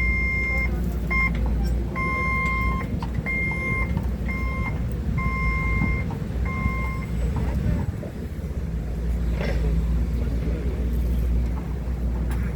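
Stand-up forklift's warning beeper sounding in uneven beeps, some short and some held, as the truck travels in reverse; the beeping stops about seven seconds in. A steady low hum of the machine runs underneath.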